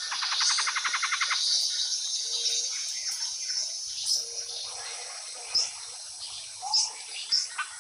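Birds chirping and calling: a fast trill over the first second and a half, then scattered short, high chirps, over a steady high-pitched hiss.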